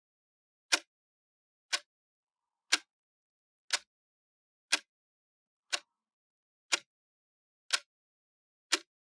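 A clock ticking, one sharp tick a second, with nothing else heard between the ticks.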